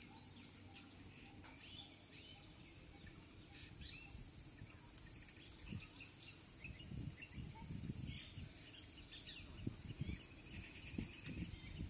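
Small birds chirping repeatedly in rural open air, many short calls. Low rumbling bumps join in from about halfway through.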